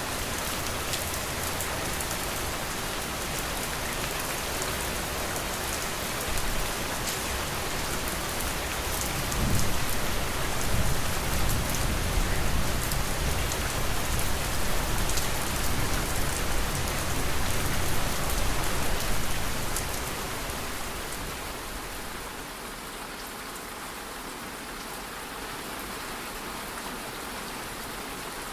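Steady rain falling: a continuous hiss with scattered drop ticks. About ten seconds in, a deep low rumble swells under the rain and carries on for about ten seconds. The whole sound then drops and stays quieter to the end.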